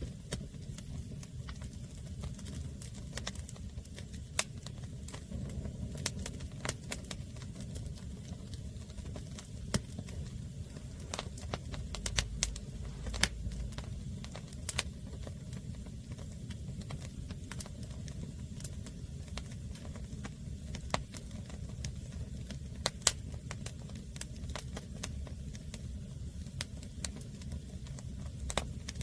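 Green firewood burning, crackling with irregular sharp pops over a low steady rumble.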